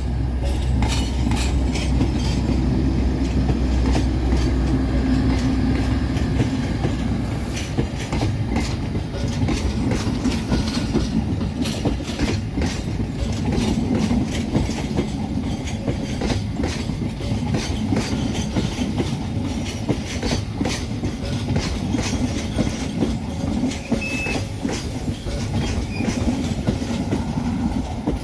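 Passenger coaches of the Sawunggalih train set rolling slowly past during shunting, their wheels clicking and knocking over rail joints. A low rumble fades after about six seconds.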